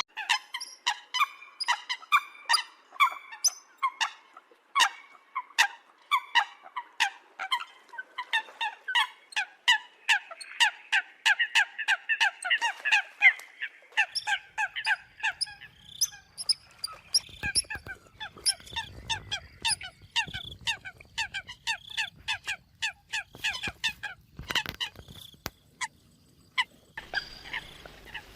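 Eurasian coots calling: a rapid series of short, sharp honking notes, about two a second. It is a recorded coot call of the kind played as a lure to draw coots in for trapping.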